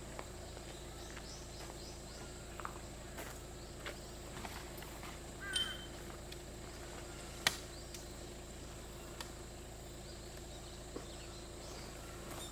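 Quiet mountain forest ambience: a steady high insect drone under scattered sharp ticks and drips, with one short bird chirp a little before the middle and a louder single tick a bit later.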